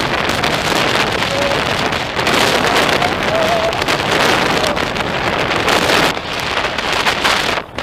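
Strong gusting wind blasting the action camera's microphone, a loud, steady rush of noise, with a faint wavering whistle in the first half and a brief drop in the wind noise near the end.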